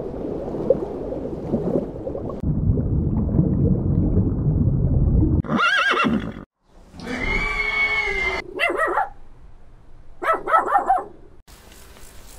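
A horse neighing several times, each whinny about a second long with a wavering pitch. A low rushing noise comes before the calls.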